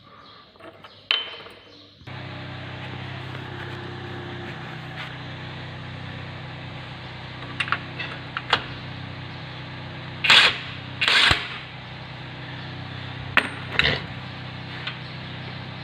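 A rear wheel hub nut being loosened off with a 30 mm socket: two short bursts of tool noise and a few sharp metallic clicks and knocks. Under them runs a steady motor hum that starts about two seconds in.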